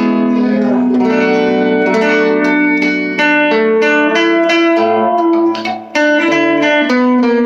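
Two-pickup electric guitar played clean through a small all-tube amp, picked notes following one another and ringing into each other, with a short break just before the end. With the guitar's volume knob backed off a little and its tone knob turned down, the sound is twangy but clean.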